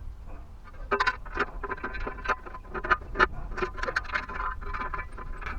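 Hand tools working on the truck: an irregular run of sharp clicks and light metal knocks, about three to four a second.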